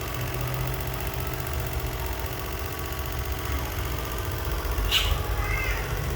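A low, steady engine rumble like an idling motor, with a sharp click about five seconds in and a brief high chirp just after.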